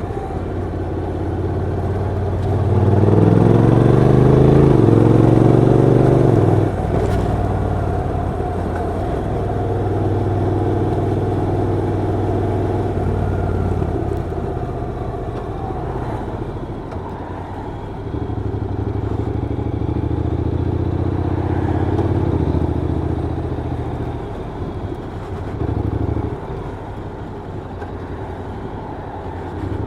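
Honda NC750X DCT's parallel-twin engine and exhaust under way. About two and a half seconds in, it pulls hard with the revs climbing for about four seconds, then drops off sharply. It then runs at steadier revs, easing off and picking up again a few times.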